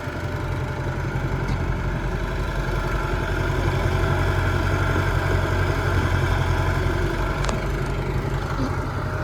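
Heavy diesel engine of earth-moving machinery running steadily at low revs, growing a little louder a couple of seconds in.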